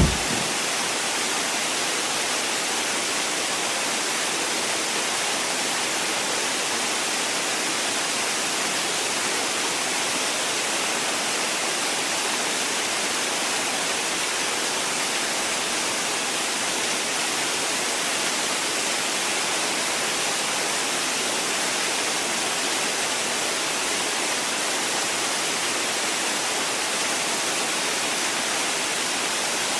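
Steady white noise: an even, unbroken hiss with little bass, holding the same level throughout.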